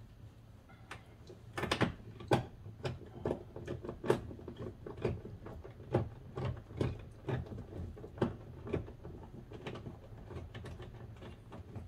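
Irregular sharp clicks and knocks, about one or two a second, of hand tools and parts being worked on a car door during reassembly, over a low steady hum.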